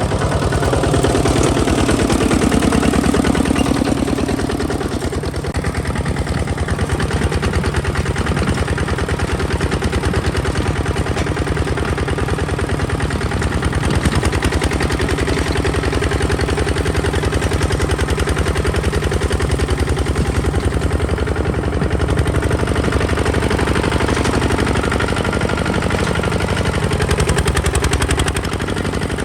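Kubota ZT155 DI single-cylinder diesel engine of a walk-behind tractor running steadily, with a rapid, even beat of exhaust pulses. It is a little louder for the first few seconds.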